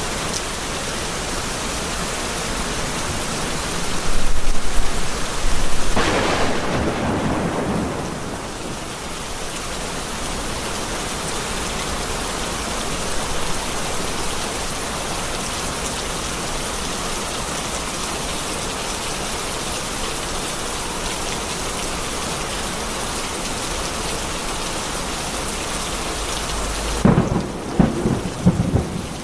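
Heavy rain falling steadily, with thunder rumbling about four seconds in and again near the end.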